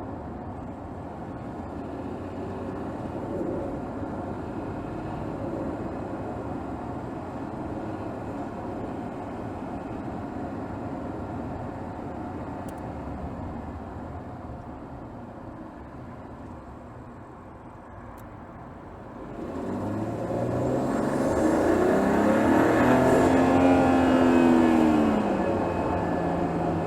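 Under-hood sound of a 2024 Mercedes GLS 450's 3.0-litre turbocharged inline-six running steadily at light load in city driving. About 20 seconds in it gets louder as the engine pulls harder, its pitch rising and then falling.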